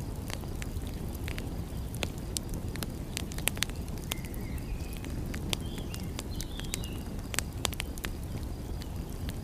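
Wood fire crackling, with frequent sharp pops over a steady low rumble, and a few short high chirps between about four and seven seconds in.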